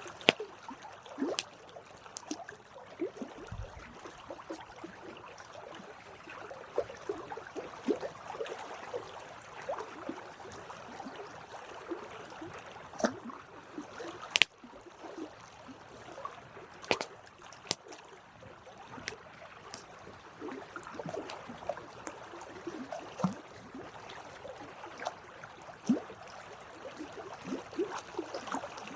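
Campfire crackling steadily, with frequent irregular sharp pops of burning wood over a soft hiss of flames.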